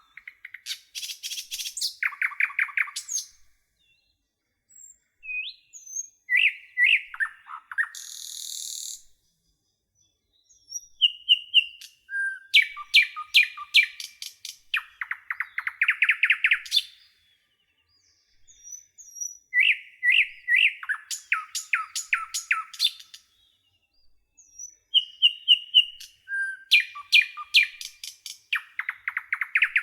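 Nightingale singing: phrases of several seconds made of rapid repeated notes, trills and clear whistles, separated by pauses of about a second.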